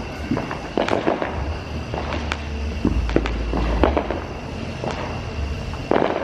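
Neighborhood fireworks and firecrackers going off: many sharp cracks and pops at irregular intervals, some overlapping, over a low rumble of more distant bangs.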